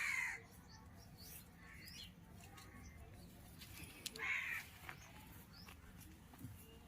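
Two short, rough bird calls about four seconds apart, over faint background noise.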